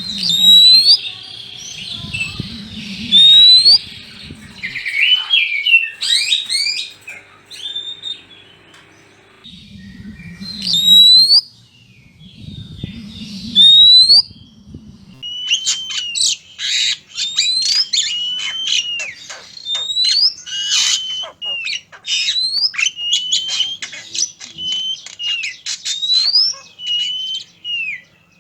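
Oriental magpie-robins calling: a rapid run of rising and falling whistled notes mixed with harsh squawks. There are two loud harsh stretches in the first half, and the calls come thick and fast in the second half.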